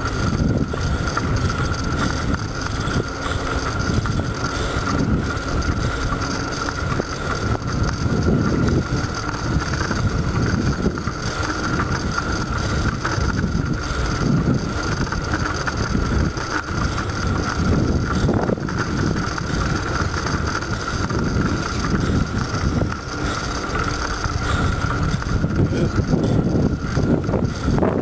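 Wind buffeting the microphone of a camera on a moving bicycle, a shifting low rumble mixed with tyre and road noise, with a thin steady high tone running underneath.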